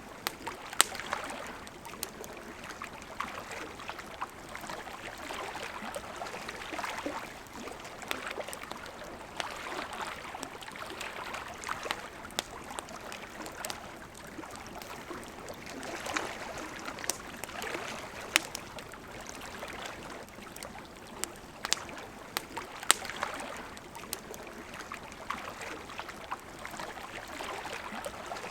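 Wood campfire crackling, with scattered sharp pops, over the steady rushing of a river.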